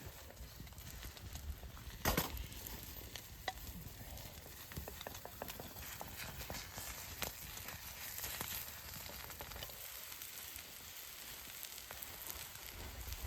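Food sizzling and frying in a carbon steel pan over a small wood fire, with a steady hiss, many small crackles and one sharp pop about two seconds in.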